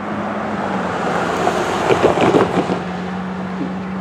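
Diesel locomotive of a slow CN freight train humming steadily, with wind buffeting the microphone. A short burst of rattling and clanking comes around the middle.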